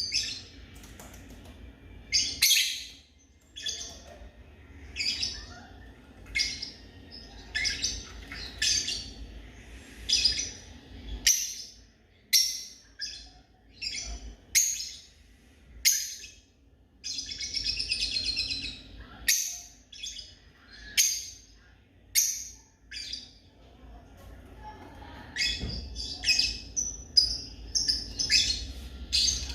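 African lovebird giving short, shrill chirps about once a second, with a longer buzzy chatter in the middle and quicker chirping near the end.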